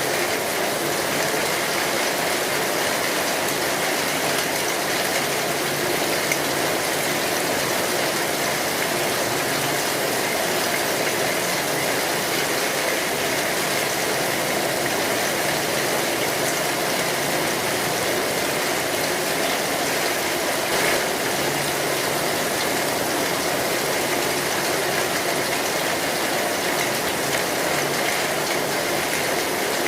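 Steady rain drumming on a metal roof, mixed with the crackle of a wood fire. A couple of sharper pops stand out, one about six seconds in and another about twenty-one seconds in.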